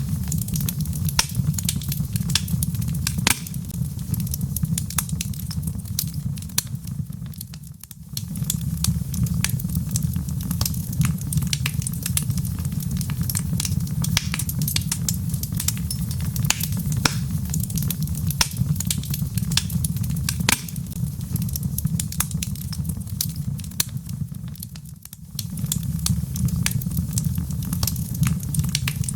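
Wood fire burning in a fireplace: dense, irregular crackles and pops over a steady low rumble of flame. The sound dips briefly twice, about eight seconds in and again near the end.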